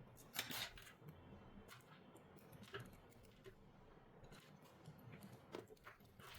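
Near silence broken by a few faint, scattered clicks and light scrapes of small hand tools on a phone. The clearest cluster comes about half a second in.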